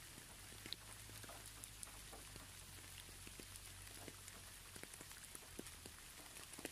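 Soft rain falling: a faint steady hiss with scattered individual drops ticking.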